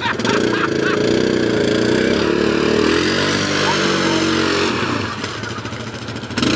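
ATV engine revving under load, its pitch rising and falling. It eases off about five seconds in, then revs up sharply again near the end.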